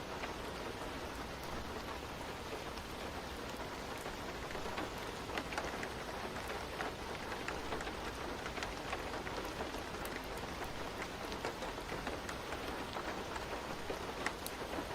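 Steady rain falling, an even hiss with many small scattered drop ticks throughout.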